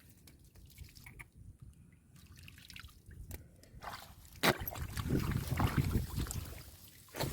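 Muddy water dripping and trickling, with scattered small clicks. Then a sharp knock, and about two seconds of louder sloshing and splashing in shallow muddy water, which stops just before the end.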